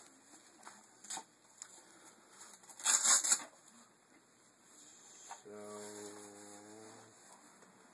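Packaging and parts being handled, with a few light clicks and a loud burst of crinkling or tearing about three seconds in. Near the end comes a steady low hum lasting under two seconds.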